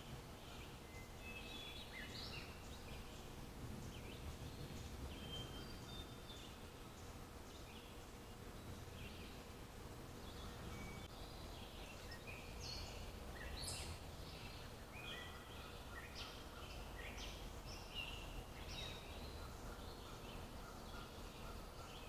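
Small birds chirping and twittering, many short high calls scattered through the clip, over a faint steady low background rumble.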